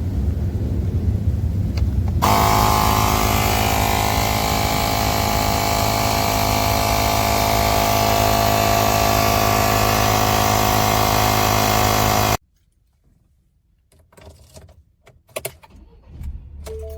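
A motor running steadily: a low rumble, joined about two seconds in by a louder, even buzzing drone, all cutting off abruptly about twelve seconds in. A few faint clicks follow, and short musical notes begin near the end.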